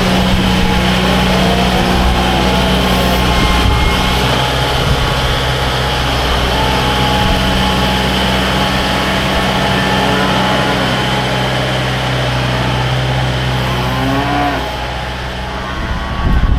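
Diesel engine of a Kubota loader tractor running steadily while it cleans out a cattle pen, easing off about three-quarters of the way through. Cattle moo a few times over the engine.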